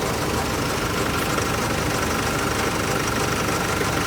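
Nissan Navara engine idling steadily, with a fast even low pulse, while the A/C runs.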